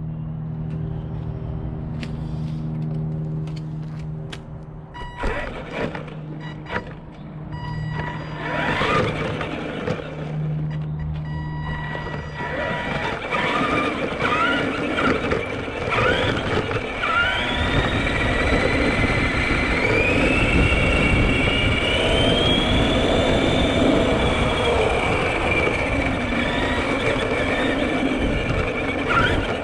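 Radio-controlled monster truck running. A steady hum with scattered clicks gives way, about twelve seconds in, to louder driving with a whine that rises and falls with the throttle.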